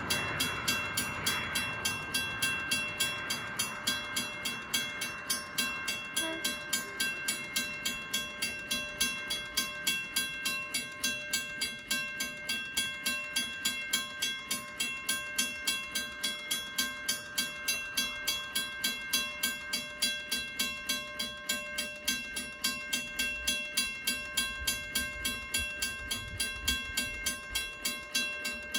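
Western Cullen Hayes 333 mechanical level-crossing bell ringing steadily, about three to four strikes a second, sounding while the crossing is activated. Train noise fades out in the first second or two.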